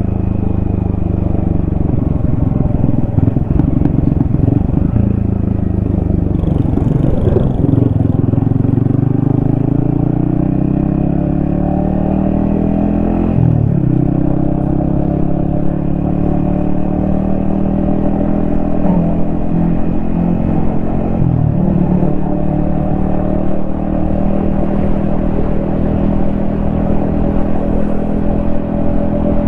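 Yamaha XSR155's single-cylinder four-stroke engine running under way: its pitch climbs as the bike accelerates, drops sharply about halfway through at a gear change, and climbs again, with two brief dips later on.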